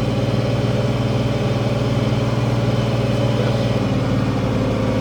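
International 1566 tractor's six-cylinder diesel engine running steadily at a constant speed.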